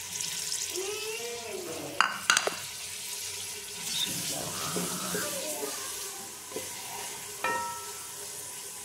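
Chopped onions, green chillies and tomatoes sizzling in hot oil in a metal pot, stirred with a spatula that knocks sharply against the pot a few times, about 2 seconds in and again near the end.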